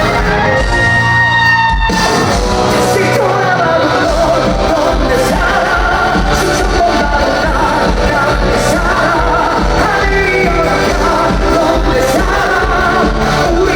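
Live pop-rock band music with a singer over a steady bass beat. The low bass drops out for about two seconds near the start, then the full band comes back in.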